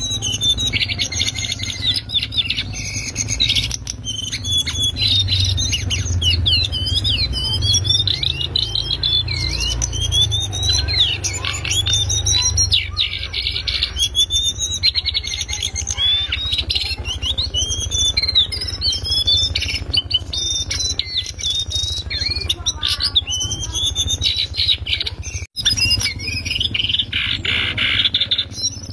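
Cingcoang coklat (lesser shortwing) singing a fast, loud, continuous twittering song of quick rising and falling high-pitched notes. A steady low hum runs underneath, and the sound cuts out for an instant near the end.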